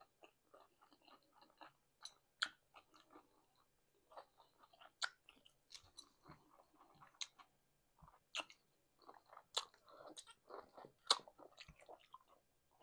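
A person chewing food with the mouth closed, with soft wet mouth noises and a sharp click or smack every second or so.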